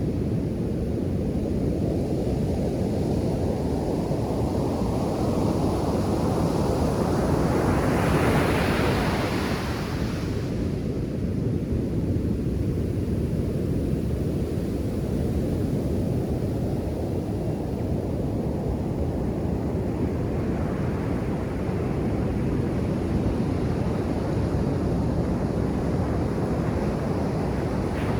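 Ocean surf: a steady rush of breaking waves, swelling loudest about eight seconds in as a wave breaks, then ebbing, with another building in the last third.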